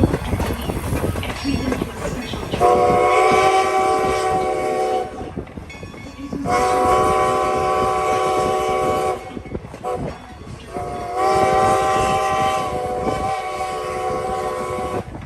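Chime whistle of Strasburg Rail Road steam locomotive No. 90, heard from the train it is hauling, sounding three long blasts of a steady chord. Faint rail clatter and running noise continue underneath.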